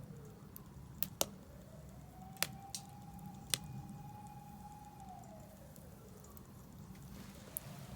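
Wood fire crackling in a Solo Stove Campfire fire pit, with scattered sharp pops over a low steady rumble. A faint tone slowly rises, holds and falls away in the background, twice.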